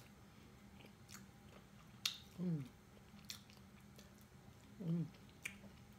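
A person eating mussels with faint chewing and a few small clicks from the shells and fingers. There are two short hummed sounds, one about two and a half seconds in and one near the end.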